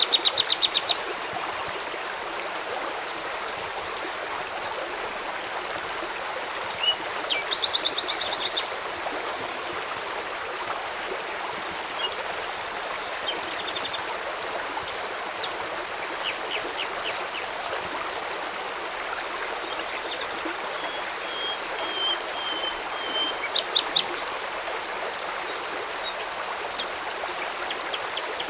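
Steady rush of flowing river water, with birds calling over it: rapid trills of short, high chirps near the start and again about seven seconds in, scattered chirps later, and a thin held whistle about twenty seconds in.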